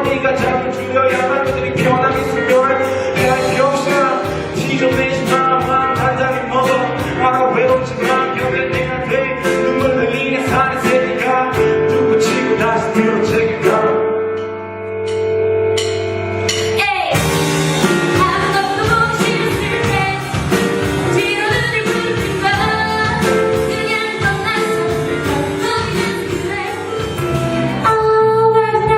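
Live band music with singing, an acoustic-style cover performance with guitar. Just past halfway the music thins to a few held notes, then comes back in suddenly at full strength.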